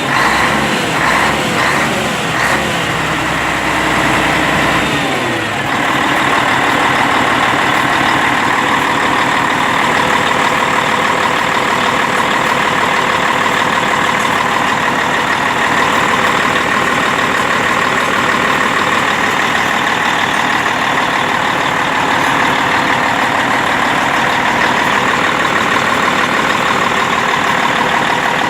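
Scania T 113 H 360 truck's 11-litre straight-six turbo diesel running; its pitch shifts in the first few seconds, then it settles into a steady run.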